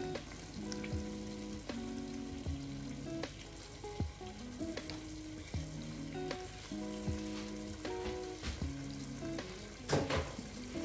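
Sauce frying and sizzling in a steel pot, with a few sharp clicks, the loudest near the end. Soft background music plays over it in held notes that step from one pitch to the next.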